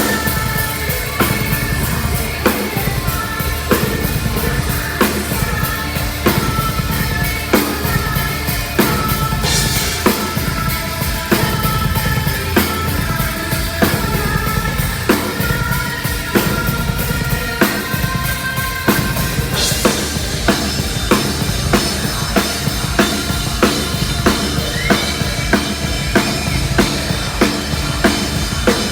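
A heavy metal band playing live and loud, with a drum kit driving a steady beat of kick and snare hits under sustained guitar and other pitched parts. The cymbals grow denser about two-thirds of the way through.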